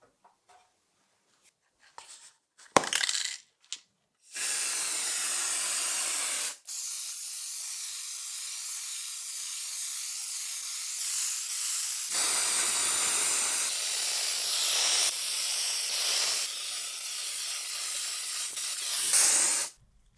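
A few light clicks and a sharp knock, then a pressurised spray hissing steadily and loudly for about fifteen seconds, with one short break about six and a half seconds in. It stops sharply just before the end.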